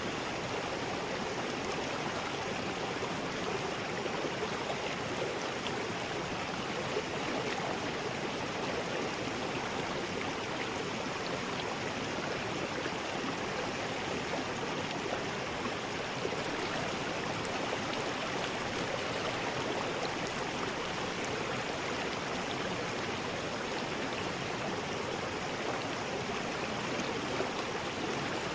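River rapids: water rushing and churning over rocks in a steady, unbroken roar.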